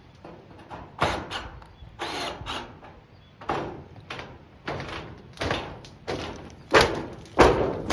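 Tin roofing panels thudding and rattling in a run of irregular knocks, about one a second, each with a short metallic ringing tail.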